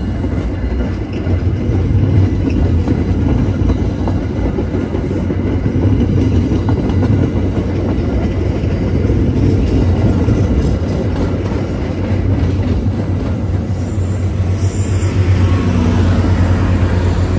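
MBTA commuter rail train rolling past at close range: a loud, steady low rumble of the passenger coaches' wheels on the rails. Near the end the sound changes as the diesel locomotive pushing at the rear of the train draws near.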